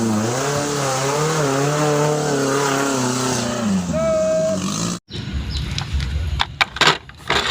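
Car engine sound, running with a wavering pitch that falls away, followed by a short steady beep. After a sudden cut come a few sharp clicks and knocks, like plastic toys being handled.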